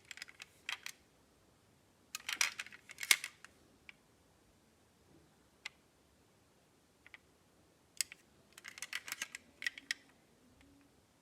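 Clicks and clacks of small die-cast metal model cars being handled, in short clattering clusters about two to three seconds in and again around eight to ten seconds in, with a few single clicks between.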